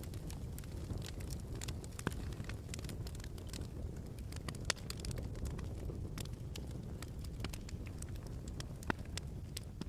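Wood fire crackling in a fireplace: a steady low rumble of flames with irregular snaps and pops, the sharpest about two, four and a half and nine seconds in.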